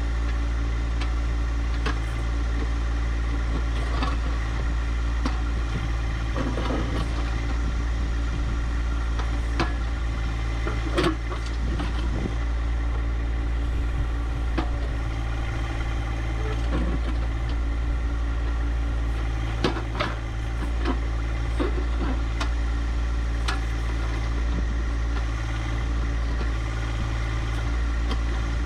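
Compact diesel tractor engine running steadily, with a few sharp knocks now and then.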